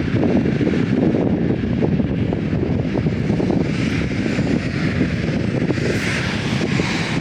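Strong wind buffeting the microphone with a ragged low rumble, over the steady hiss of jet aircraft engines that swells about halfway through.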